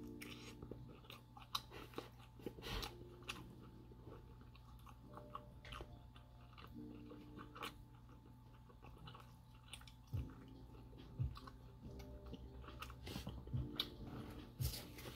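Close-miked chewing and wet mouth smacks of someone eating a steak and potato meal, with scattered short clicks, over a faint steady hum.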